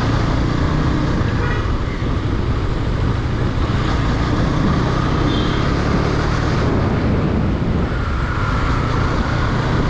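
KTM Duke 250 single-cylinder motorcycle riding in traffic: steady engine and road noise with a heavy wind rumble on the microphone.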